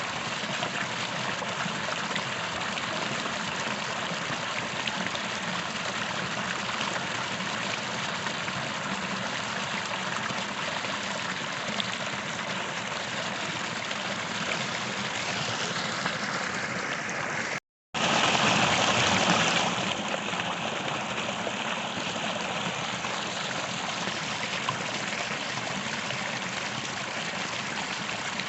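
A small creek running steadily over stones. About two-thirds of the way through, the sound drops out for a split second, then the water is louder for about two seconds before it settles back.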